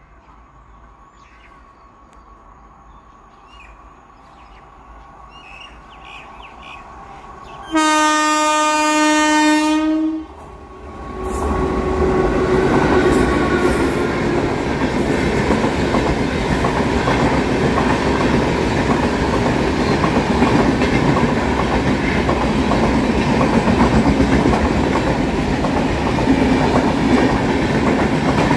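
An express train's locomotive sounds one long horn blast of a little over two seconds, about eight seconds in, as it approaches. The train then rushes through the station without stopping: a loud, steady rumble of passing LHB coaches, their wheels clattering on the rails.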